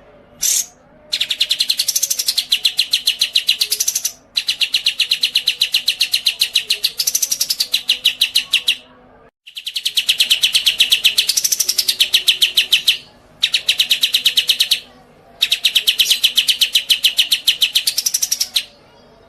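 A cage songbird singing a loud, rapid trill of fast repeated high notes in long bouts of about three to four seconds, with short breaks between them and one brief total dropout about halfway through.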